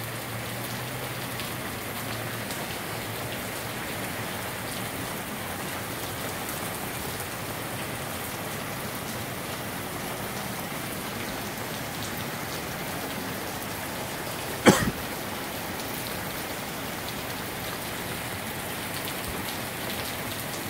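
Moderate to heavy rain shower falling steadily on shingle roofs and foliage, an even hiss of rain. About two-thirds of the way through comes one brief, loud, sharp sound.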